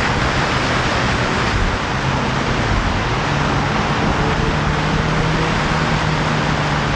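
A motorcycle riding at speed: loud wind rushing over the microphone, with the engine's note running underneath and rising a little in pitch past the middle.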